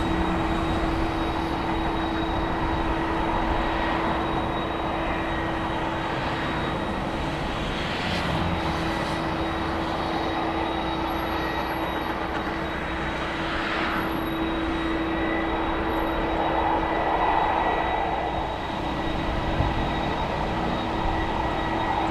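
Airliner engines running: a steady rumble with a constant hum held at one pitch.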